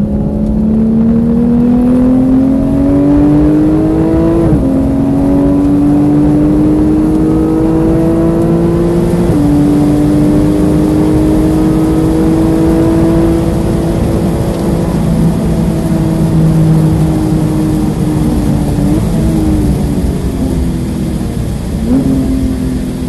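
Porsche 991.1 GT3's flat-six heard from inside the cabin under hard acceleration, pitch rising through the gears with two quick upshifts, then holding at high speed. Near the end it eases off and the revs jump on two downshifts as the car slows.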